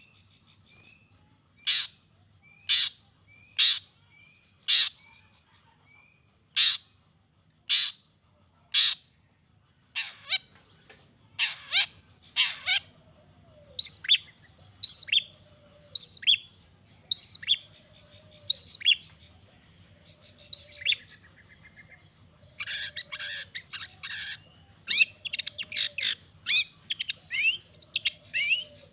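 Long-tailed shrike (cendet) calling: harsh, rasping calls about once a second, turning into varied notes and then a fast, dense chatter about three-quarters of the way through. A fainter, lower falling note repeats in the background.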